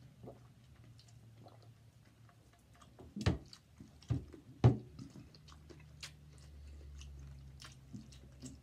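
Close-miked chewing and crunching of fried egg rolls, with many small crackles. Three louder sharp knocks come in quick succession around the middle.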